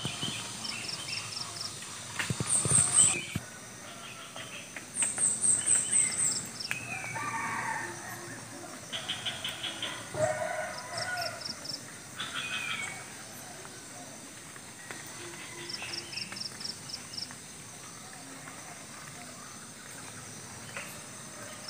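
Several birds calling in a morning countryside chorus: sharp high chirps, loudest a few seconds in, and falling whistled notes. A short, high, pulsed trill repeats about every five seconds.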